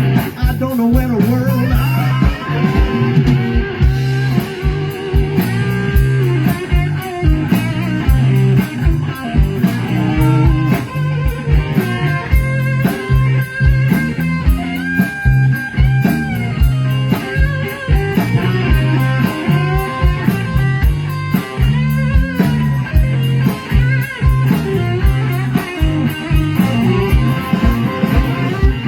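Live blues band playing an instrumental passage: guitar leads over a bass line and steady drum beats, with no singing.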